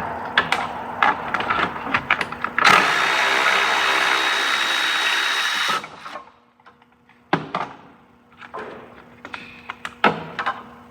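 Handheld power tool running for about three seconds to spin out a fastener, stopping abruptly, with metal clicks and knocks of tools and socket before and after.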